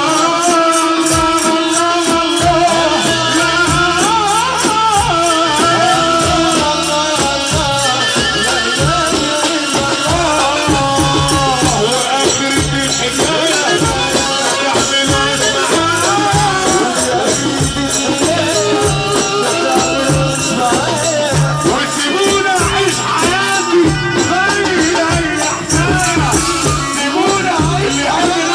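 Egyptian shaabi wedding music playing without vocals: a wavering, ornamented melody line over fast, even, rattling percussion and a pulsing bass beat.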